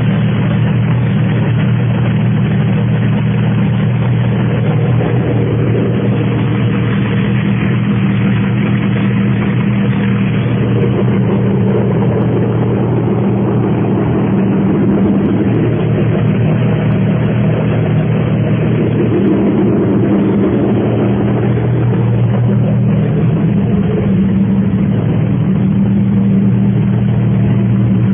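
ARCA stock car's V8 racing engine running loudly at a steady speed, its pitch barely changing throughout.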